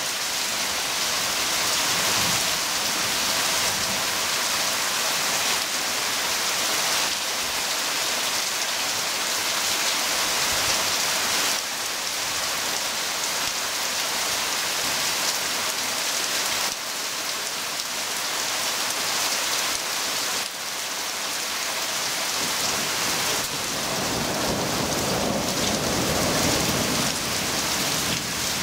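Heavy thunderstorm downpour falling on garden shrubs and leaves, a steady hiss of rain. A low rumble of thunder sets in near the end.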